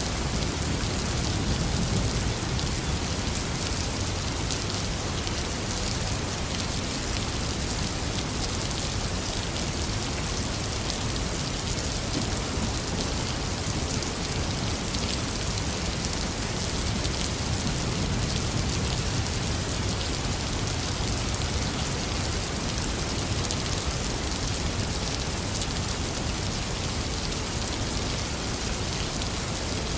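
Heavy rain falling steadily, with low rumbles of distant thunder swelling and fading twice, once near the start and again about halfway through.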